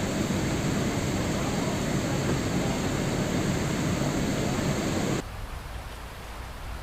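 Steady hiss of heavy rain noise that drops suddenly about five seconds in to a quieter, softer rain hiss.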